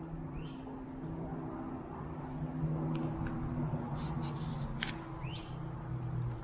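A bird gives two short rising calls, about half a second in and again near the end, over a steady low mechanical hum.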